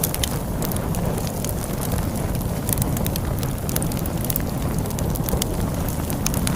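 Wood fire crackling with frequent irregular sharp pops and snaps over a steady low rush of storm wind.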